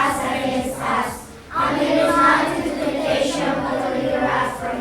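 A group of girls singing together, with a brief pause about a second and a half in.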